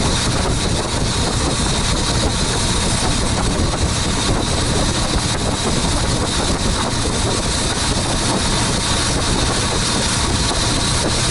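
A boat's engine running steadily, with a constant rush of noise and no change in pace.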